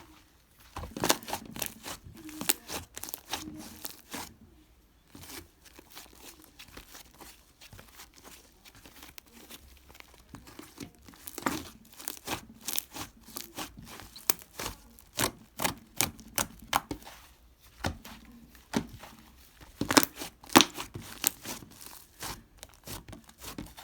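Fluffy clay slime being squeezed, poked and stretched by hand, giving clusters of sharp crackling and popping clicks, with a quieter, sparser stretch partway through.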